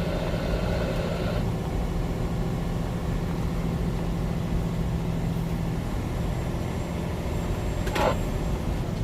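Semi-truck's engine running steadily with road noise, heard inside the cab. A brief sharp sound comes about eight seconds in.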